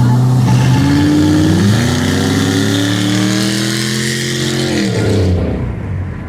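Four-cylinder car engine accelerating: its pitch climbs steadily for a few seconds, then drops sharply about five seconds in as it shifts up, and the sound fades near the end.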